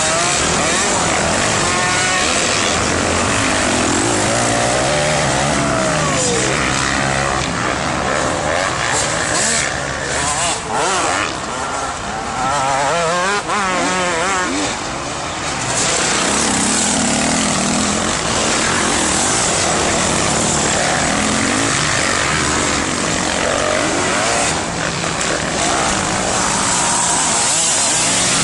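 Several motocross dirt bike engines revving up and down and overlapping, their pitch rising and falling with the throttle. The engines ease off for a few seconds around the middle before building again.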